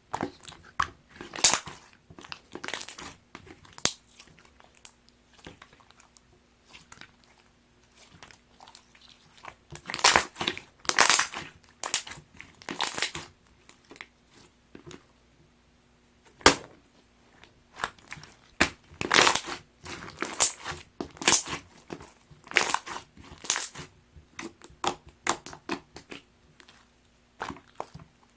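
Hands squeezing, stretching and folding gold pearl slime, making irregular crackly squishing and popping sounds that come in clusters, some louder than others.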